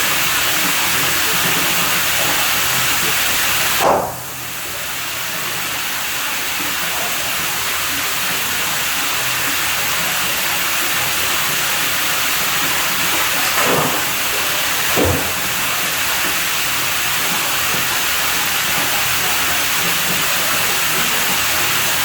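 Steady rush of running water. About four seconds in a brief knock sounds, after which the rush drops and slowly builds back up; two fainter knocks follow about ten seconds later.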